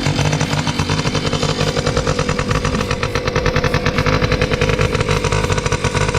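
A 1985 Yamaha Tri-Zinger's 60cc two-stroke single-cylinder engine running steadily on the first start after a top-end rebuild with a new piston, cylinder and head. It has a fast, even pulse of firing strokes. It is running cold, on a 54-degree day, with a broken choke cable.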